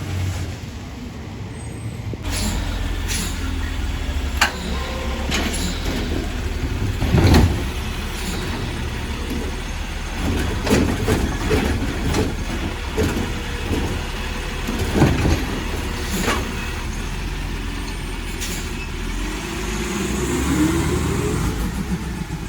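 Garbage truck engine running steadily, with a string of sharp metallic clanks and knocks, the loudest about seven seconds in, and a rising and falling whine near the end.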